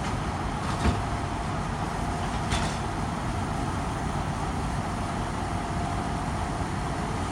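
Steady low rumble of heavy recovery equipment running, with two short knocks, about one second and two and a half seconds in.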